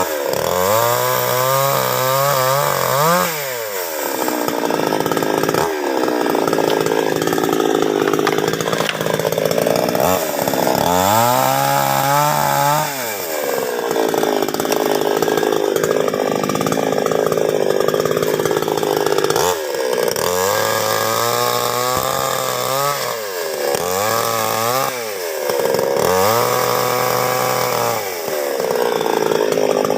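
Chainsaw engine mostly running at high revs, cutting through wood. About three times the revs drop to a low idle and rise again.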